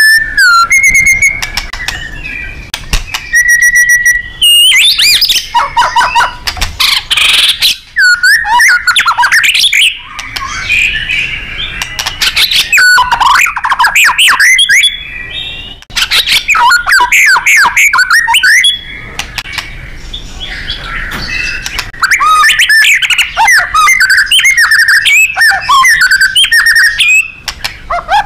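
White-rumped shama singing a loud, varied full song: whistled notes, fast up-and-down sweeps and rapid runs of sharp notes, in bursts of a few seconds with brief pauses between.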